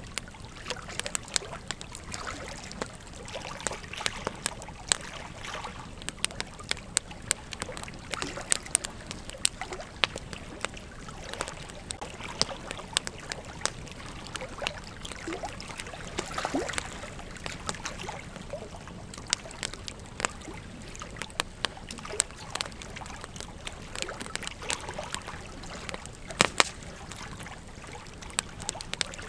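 Campfire crackling: irregular sharp pops and snaps of burning wood over a steady low hiss, with the loudest pops near the end.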